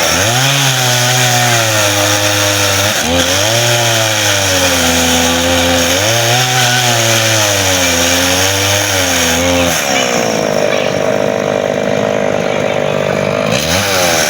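A small engine running and revving, its pitch rising and falling every few seconds, then holding steady for a few seconds near the end.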